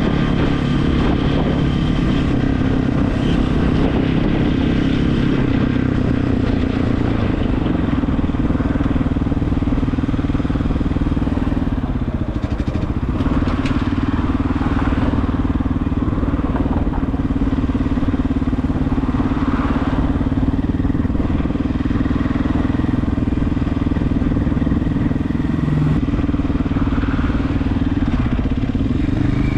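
Regulmoto TE enduro motorcycle's engine running steadily while riding, with wind and road noise; the engine note dips briefly about twelve seconds in.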